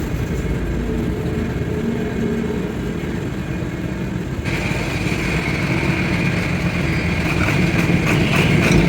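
Machinery running steadily with a low hum; a higher whine joins about halfway through, with a few light clicks near the end.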